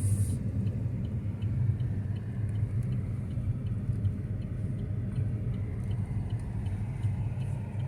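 Steady low road and engine rumble heard from inside a moving car. A faint, evenly spaced ticking runs through it at about two a second, the turn signal.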